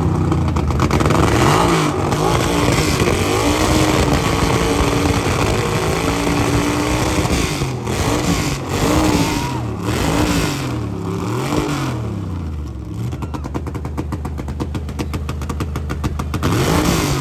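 Car engine with a loud competition exhaust revved hard again and again, its pitch climbing and falling with each rev, then settling to idle about twelve seconds in before one more rev near the end.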